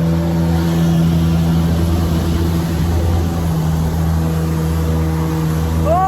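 Jet ski engine running at a steady speed, with wind and water-spray noise over it.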